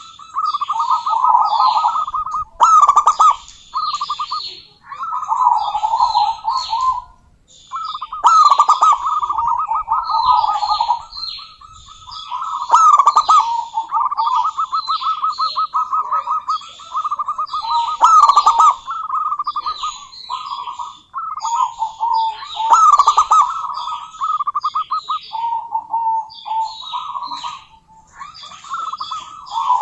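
Zebra doves calling almost without a break: rapid staccato trilled cooing notes, with louder accented phrases every few seconds and short, sharper higher notes mixed in. The calls are those of a female zebra dove calling to rivals.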